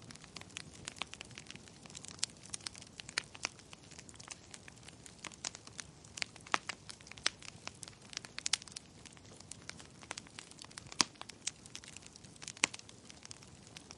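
Wood fire crackling in a fireplace: irregular sharp pops and snaps over a faint steady hiss, with a few louder pops.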